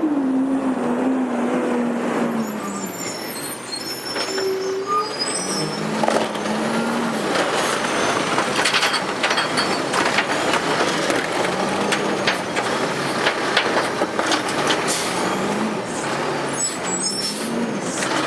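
Autocar garbage truck's diesel engine running, its pitch falling at first and then rising and falling again and again as it is revved, with a hiss of air a few seconds in and scattered clanks.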